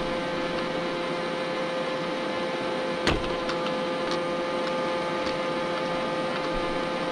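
Robot vacuum cleaner running with a steady motor hum, with one sharp knock about three seconds in and a few light clicks after it.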